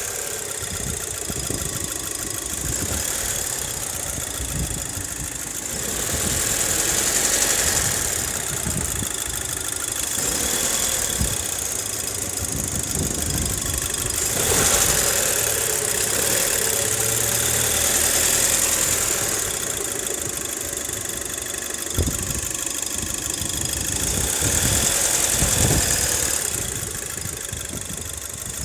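2006 Audi A4 (B7) engine running at idle, with a knocking noise that the owner is unsure about and wants identified. The sound swells louder a few times, and there are one or two sharp taps.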